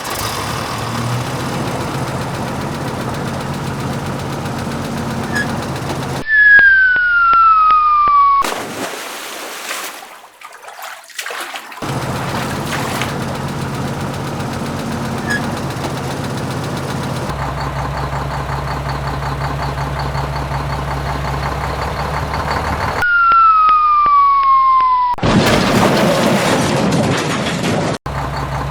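Heavy vehicle engine sound running steadily, cut twice by a loud falling whistle tone and by short bursts of noise.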